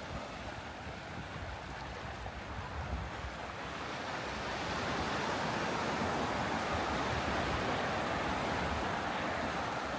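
Sea surf washing onto a sandy beach, a steady rush that swells up about four seconds in and eases slightly near the end.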